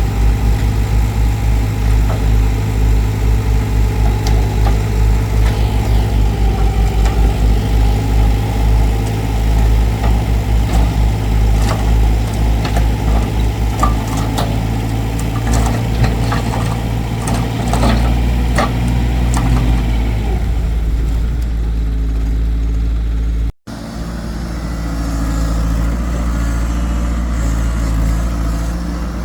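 Excavator's diesel engine running steadily with a pulsing low rumble, with scattered sharp knocks and clanks in the middle stretch. Near the end the sound breaks off suddenly and resumes with an engine running again.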